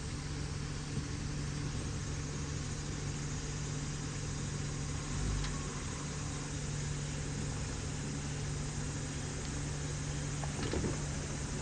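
An off-road vehicle's engine running steadily at low revs, with a few light knocks near the end.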